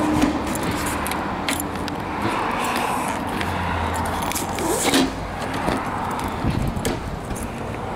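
Fabric cover over a convertible's folded top being unfastened and pulled off by hand: rustling with scattered small clicks.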